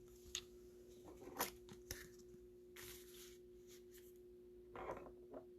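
Trading cards and plastic card sleeves being handled: a scatter of soft clicks and slides, with a longer rustle about three seconds in, over a faint steady hum.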